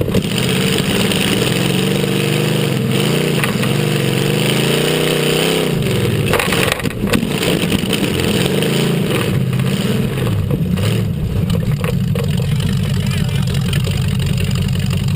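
Off-road racing tough truck's engine running hard on a dirt track, its pitch rising and falling with the throttle, then holding steadier after a couple of sharp knocks about six to seven seconds in.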